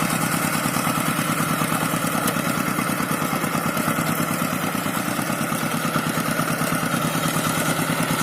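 Single-cylinder diesel engine of a two-wheel hand tractor running steadily, with a rapid, even chugging beat.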